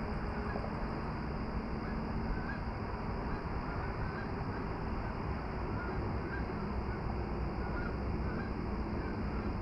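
Steady rushing outdoor noise, over which a bird gives short, faint, repeated calls about one or two a second, starting about two seconds in.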